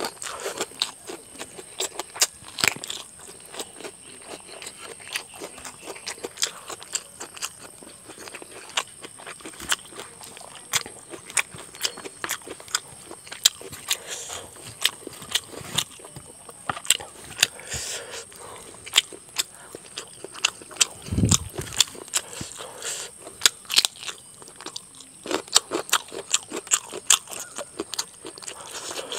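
Close-up eating sounds: mouth-full chewing and lip smacking in a quick run of sharp clicks, with some crunching, as rice and chicken curry are eaten by hand.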